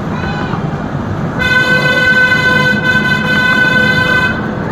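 Miniature railway locomotive sounding one steady toot for about three seconds, a single clear note over the rumble of the train running along the track.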